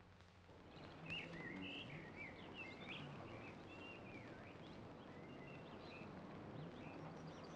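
Faint birds chirping and twittering in short rising and falling calls over a steady background hiss, starting about a second in.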